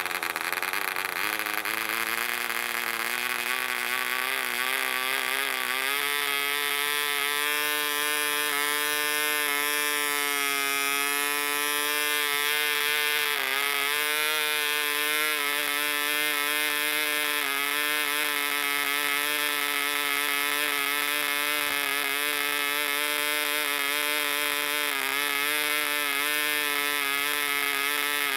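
Barbini B.38 1cc model diesel engine running with its 7x4 propeller. It speeds up over the first six seconds and then holds a high, steady whine with slight wavering and a brief dip about halfway through, uneven running that the owner puts down to the engine being new and not yet broken in.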